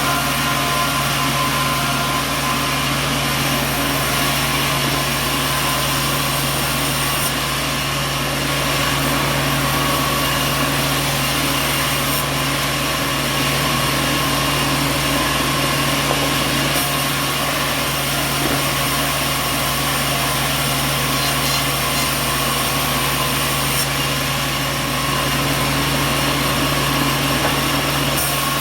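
Sawmill machinery running steadily: a continuous motor hum under a wide mechanical hiss, with no breaks or impacts.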